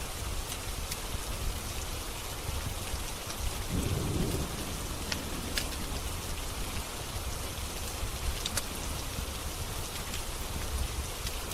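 Steady rain with a few sharp pops from a crackling wood fire, and a short low rumble of thunder about four seconds in.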